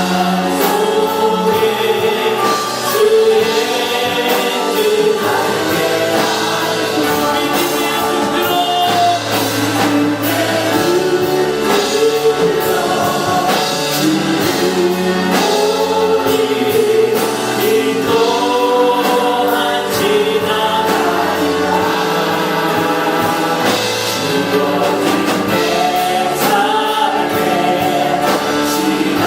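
A group of voices singing a worship song in chorus, with instrumental accompaniment.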